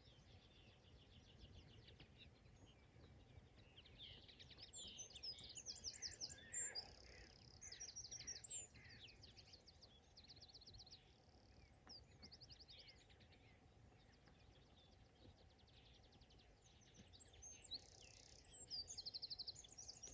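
Several small songbirds singing, with quick high trills and chirps repeated through the stretch, over faint steady background noise.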